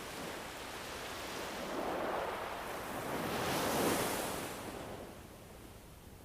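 Wind gusting in a rushing swell that builds twice, strongest about four seconds in, then dies down.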